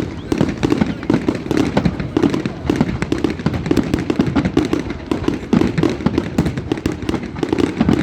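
Firecrackers going off in quick succession: a dense, continuous run of sharp cracks, several a second.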